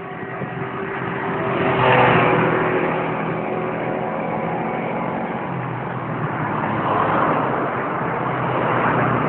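Road traffic: motor vehicles passing close by, the noise swelling to a peak about two seconds in and again about seven seconds in over a steady engine hum.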